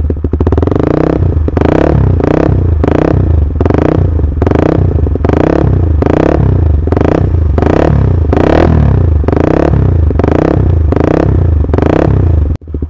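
Honda CB150R single-cylinder engine revved in quick repeated throttle blips, about two a second, through a DOS Muffler full-system exhaust with a 30 cm silencer and custom header. The bike stands still and is only partly revved, not taken to high revs. The blipping stops abruptly near the end.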